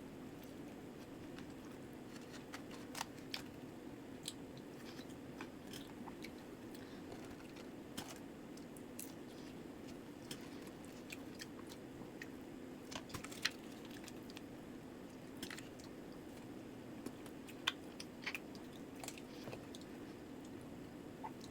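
Close-up chewing and biting into crispy Popeyes fried chicken, with irregular sharp crunches and crackles of the breading over a steady low hum.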